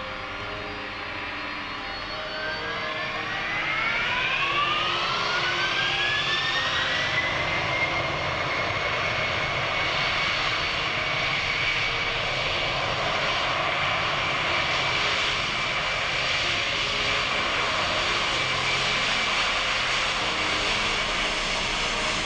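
Boeing 787-10 Dreamliner's turbofan engines spooling up. A rising whine climbs for about five seconds and grows louder, then settles into a steady high whine over a broad roar.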